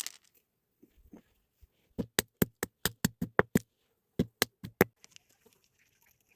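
A quick run of about nine sharp clicks, roughly five a second, then a short pause and four more.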